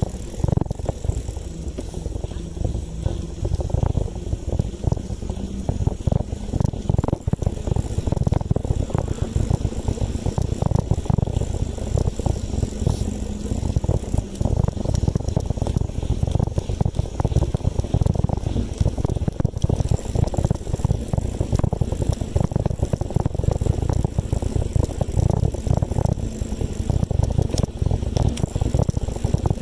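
Riding noise from a moving bicycle: a heavy, gusty rumble of wind buffeting the microphone mixed with tyre and road noise.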